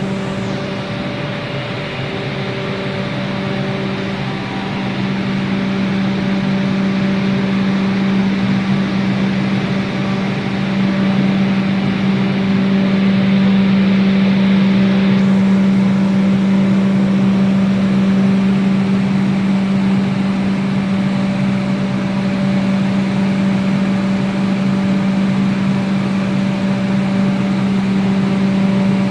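3000 Class train giving off a loud, steady hum: one low tone with several higher overtones over a noisy rush, slowly getting louder. The cause of the noise is unknown to the person recording it.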